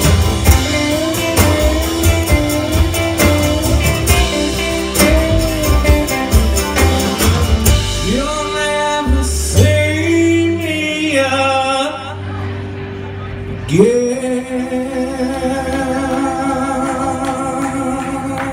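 A band playing and singing the end of a song, with guitar and a steady drum beat under the vocal. About fourteen seconds in, the band hits a final chord and holds it with a long sung note.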